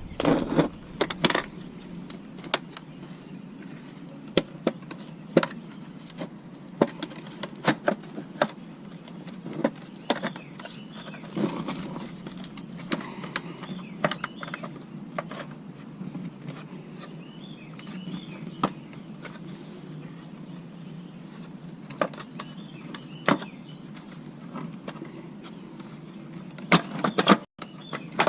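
Plastic housing of a Dirt Devil vacuum cleaner being handled and prised apart after its screws are out: irregular sharp clicks and knocks of plastic parts, with a cluster of louder ones near the end.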